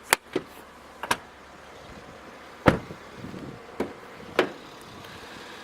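About six sharp clicks and knocks from a car's interior fittings being handled. The loudest is a knock with a low thud about two and a half seconds in.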